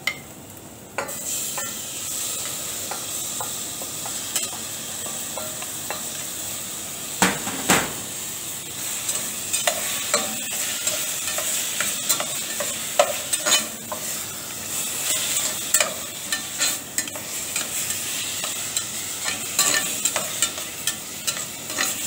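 Chopped tomatoes sizzling in hot oil with sautéed onion, leek and garlic in a stainless steel saucepan, the hiss rising sharply about a second in as they go into the pan. A slotted metal spatula stirs, scrapes and clicks against the pan throughout, with one louder knock partway through.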